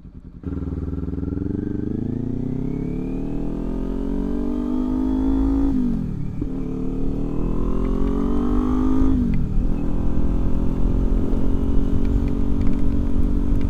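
Motorcycle engine pulling away and accelerating, its pitch rising steadily and dropping sharply at two upshifts, then running at a steady cruise with road and wind rush.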